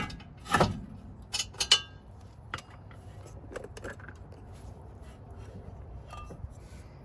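Metal tools and suspension parts clinking and knocking as they are handled: a handful of sharp, ringing metal knocks in the first two seconds, then a few lighter ticks.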